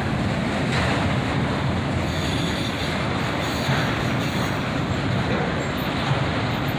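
CSX autorack freight cars rolling past, a steady noise of steel wheels running on the rails.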